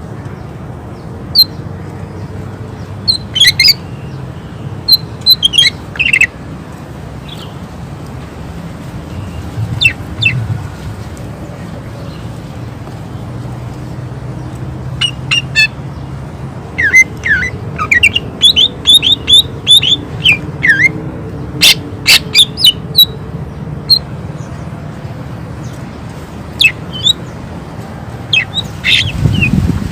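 Greater green leafbird (cucak ijo) singing in scattered bursts of sharp, loud chirps and quick whistled notes, with a fast run of notes a little past the middle. A low steady hum runs underneath.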